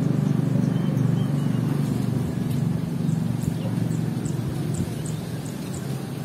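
A low rumble that slowly fades, with faint, short, high chirps of small birds scattered over it.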